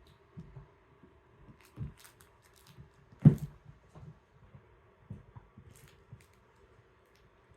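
Kittens playing: soft, scattered thumps and scuffles of paws and bodies, with a few light scratching ticks. The loudest thump comes a little before halfway.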